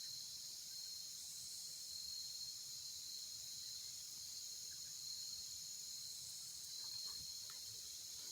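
Insect chorus droning steadily at a high pitch: a continuous outdoor buzz of insects.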